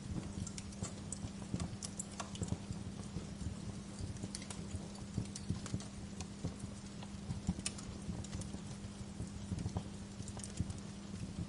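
Bonfire crackling: burning logs giving off irregular sharp pops and snaps, several a second, over a low steady hum.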